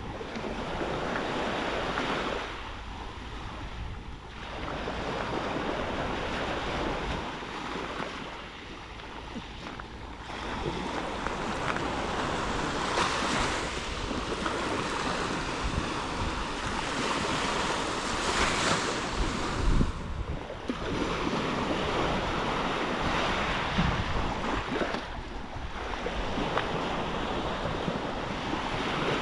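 Black Sea waves breaking and washing onto the beach, the surf swelling and ebbing every few seconds, with wind buffeting the microphone.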